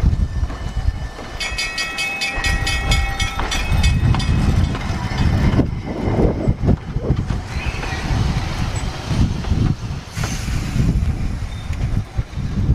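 A train running on the rails with a steady heavy rumble. For about two seconds near the start there is a rapid ringing, several strikes a second.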